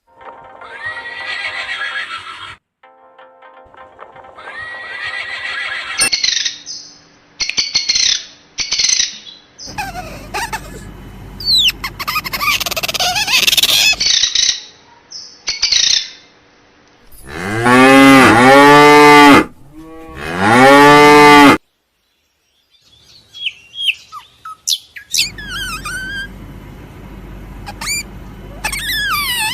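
A string of short animal-call clips joined by abrupt cuts; the loudest are two long cow moos back to back a little past halfway, each rising and then falling in pitch. Short chirps and calls fill the other clips.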